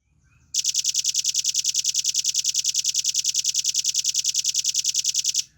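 Velvet-fronted nuthatch (red-billed nuthatch) singing one long, fast, even trill of about ten sharp notes a second. It starts about half a second in and stops abruptly near the end.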